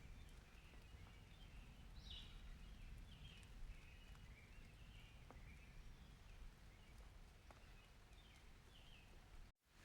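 Faint outdoor ambience: a low wind rumble with scattered faint high chirps and a few soft ticks. The sound cuts out for a moment near the end.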